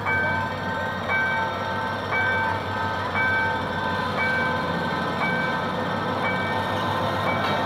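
GM GT22CW-2 diesel-electric locomotive running as it pulls a passenger train toward the crossing. A level-crossing warning signal sounds over it, a two-tone electronic ring repeating about once a second.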